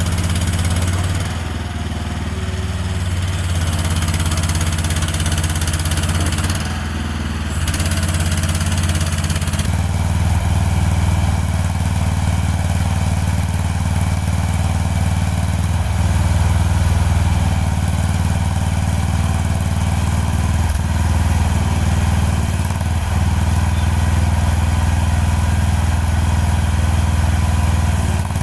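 A motor-driven machine running steadily with a loud, low, continuous drone, dipping briefly twice near the start.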